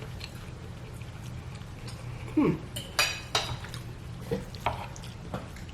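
Cutlery clinking and scraping against a dish during eating: about half a dozen short, sharp clinks spread over the second half, over a steady low hum.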